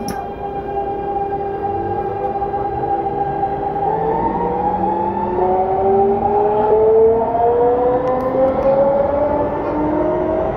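Keikyu 1000-series train's Siemens GTO 'Doremifa' inverter whining as the train accelerates, heard inside the car: a held tone at the top of its stepped musical scale, then several whines climbing steadily in pitch. Traction motor and rail noise grow louder underneath.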